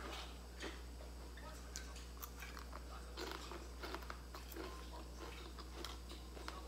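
A person chewing crispy fried snacks (bánh chiên giòn) with the mouth closed: a run of short, sharp crunches and crackles at irregular intervals, over a steady low hum.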